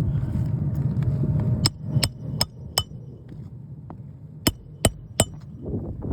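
Hand hammer driving roofing nails into asphalt shingles, metal striking the nail heads with a short ring: four evenly paced blows, a pause of about a second and a half, then three more.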